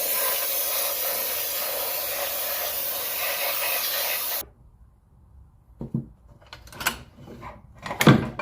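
Steady spraying hiss for about four seconds that cuts off abruptly, as loose debris is blasted out of a Predator 212 engine's crankcase. Then a few sharp knocks and clanks of metal parts being handled.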